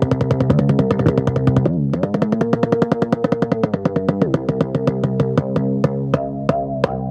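Korg Wavedrum electronic drum played with fast, even strokes over a sustained droning pitched tone. The drone shifts pitch about two seconds in and again about four seconds in, and the strokes thin out in the second half.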